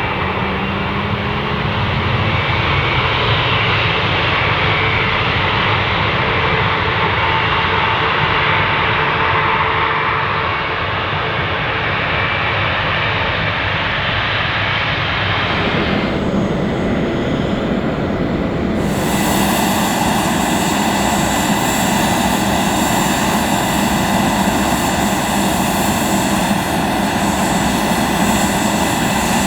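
Boeing 757's Rolls-Royce RB211 turbofan engines running loud and steady, with an abrupt change in tone a little past halfway.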